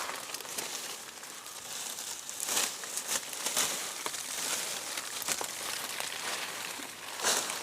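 Dry brush and leaves rustling and crackling as undergrowth is pulled and cut away, with a few sharper snaps or strokes near the middle and near the end.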